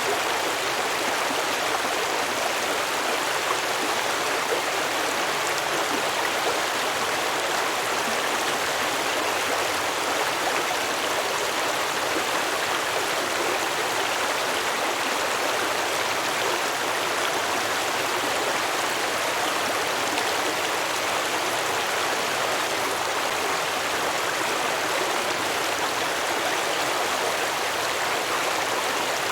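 Small stream flowing and babbling over rocks, a steady, even rush of water.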